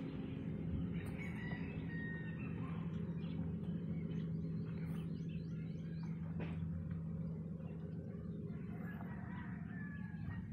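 Bird calls, a few short chirps about a second and a half in and again near the end, over a steady low hum.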